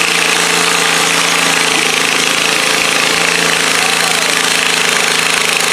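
Garden pulling tractor engine running loud and steady, its pitch unchanging.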